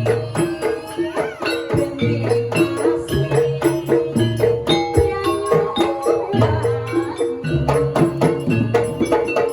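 Javanese jaranan music played live on gamelan-type instruments: a repeating figure of struck metal notes over low bass notes, kept to a steady beat of percussion strokes.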